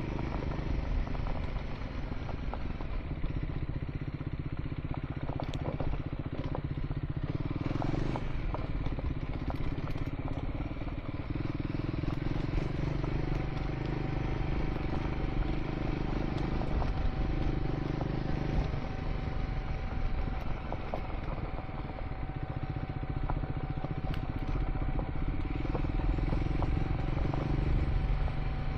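Triumph Scrambler 400 X single-cylinder engine running while ridden on a dirt track. The engine note rises and falls every few seconds as the throttle changes.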